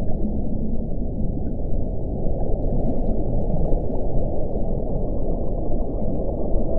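Wind blowing steadily, a deep, low rushing with no high hiss.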